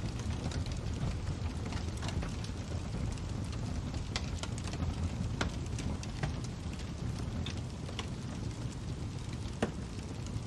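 Wood fire crackling: a steady low rumble of flames with irregular sharp pops and snaps, a few of them louder than the rest.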